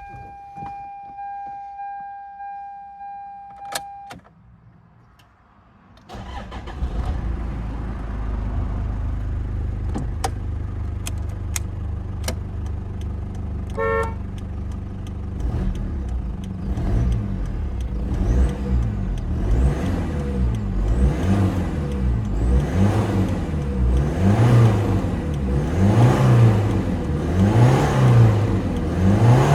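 A repeating in-car warning chime, then the 3.0-litre turbodiesel of a Toyota Land Cruiser Prado KZJ78W starts about six seconds in and idles. A short electronic beep sounds midway through. In the second half the engine is revved repeatedly, the pitch rising and falling about once every second and a half.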